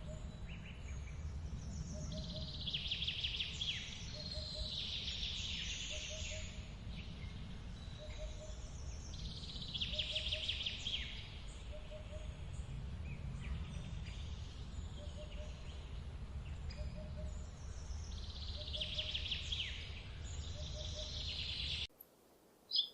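Outdoor nature ambience: birds singing in bursts every few seconds over a steady low rumble, with a faint short low note repeating about once a second. It all cuts off suddenly about a second before the end.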